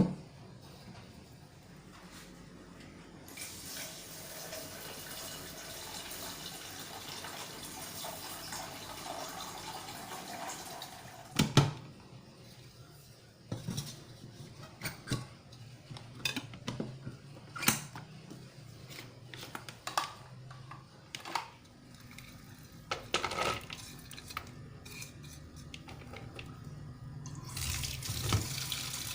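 Water running from a kitchen tap into a sink, then stopping; a stretch of sharp knocks and clinks follows, dishes or utensils being handled, before the tap runs again near the end.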